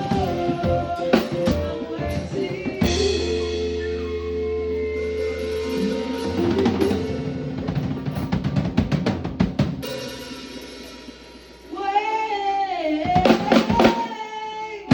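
Live band playing with a drum kit, bass and sustained melodic lines. A rapid run of drum hits comes in the middle, the music thins out briefly, and then the band comes back in with bending melodic notes.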